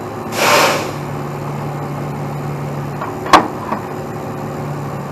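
Heavy tow truck's diesel engine running steadily while its boom works, with a short burst of hiss about half a second in. A sharp metal knock comes a little after three seconds, followed by a smaller one.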